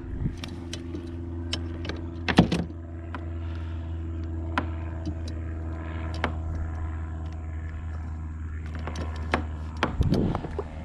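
A steady low motor hum, with scattered clicks and knocks from handling and a louder knock a little over two seconds in.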